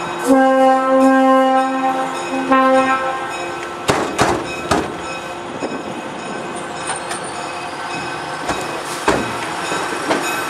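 Locomotive horn blowing one long blast and then a short one, steady in pitch, heard from aboard the train. After it the passenger car rumbles along the track with a few sharp knocks near the middle and again later.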